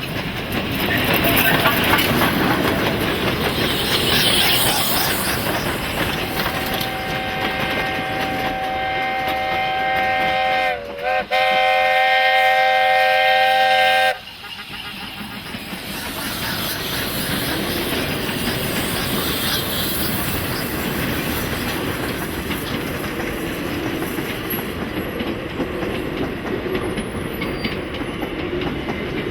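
Steam train running, a steady rush of locomotive exhaust and wheel noise. About six seconds in, a long several-toned steam whistle blast sounds; it dips briefly in pitch midway and cuts off sharply about halfway through.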